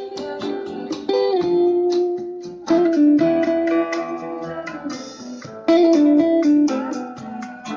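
Instrumental stretch of a song with a plucked guitar melody, played back through a Divoom Airbeat 10 portable Bluetooth speaker.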